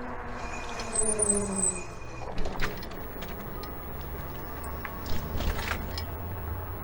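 Fat-tire electric bike being ridden, with steady tyre and wind noise. In the first two seconds a whine falls in pitch as the bike slows, and a brief high squeal from its new brakes comes about a second in. A few sharp clicks and knocks follow.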